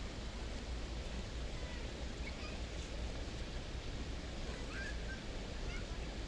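Steady outdoor background noise with a low rumble, and a few short, faint bird chirps scattered through it.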